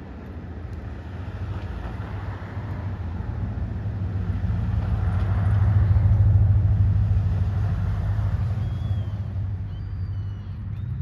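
A road vehicle passing close by: a low engine hum and tyre noise that build to their loudest about six seconds in, then fade.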